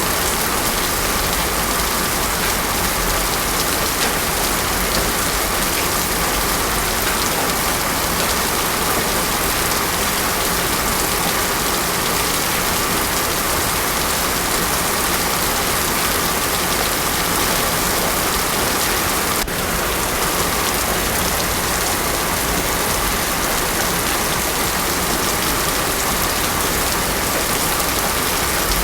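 Heavy rain falling steadily and hard on a road surface, a dense even hiss with no thunder. A single faint click about two-thirds of the way through.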